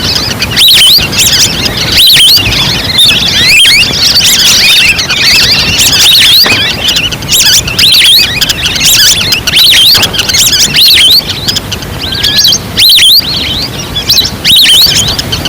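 Wild ducks calling as a flock in a recording used as a hunting lure: many short, high whistles overlap several times a second, each rising or hooked, over a steady low background, played loud.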